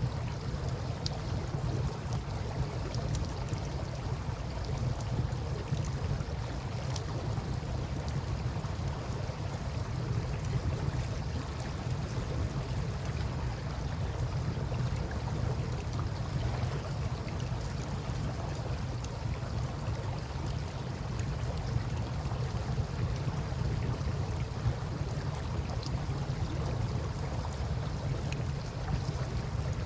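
Wood campfire crackling with scattered small pops over the steady low rush of river water.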